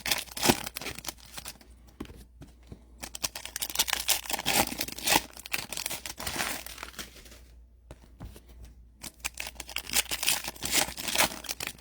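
Crinkling and tearing of trading-card packaging, in three bouts of quick rustles with short pauses between.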